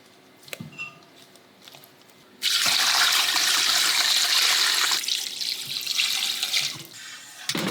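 Kitchen tap turned on, water running hard into the sink, starting abruptly about two and a half seconds in and easing off in the last couple of seconds, after a few light clicks.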